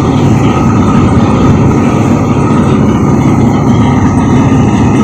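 Loud, steady low rumble of a car ferry under way, its engines running with a faint steady whine above the drone.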